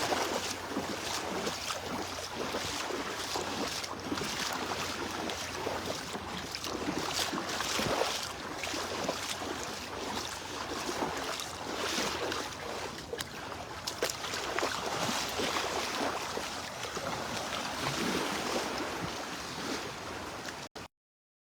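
Wind buffeting the microphone over surf on a beach, an uneven rushing noise with no steady tones. The audio drops out completely for a moment near the end.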